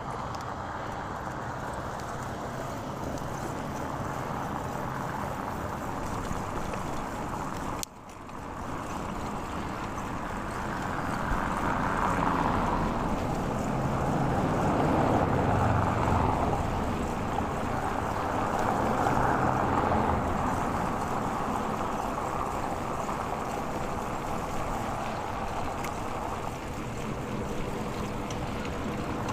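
Wind rushing over a clip-on lavalier mic on a moving bicycle, a steady rushing noise that swells and eases several times. It drops out briefly about eight seconds in.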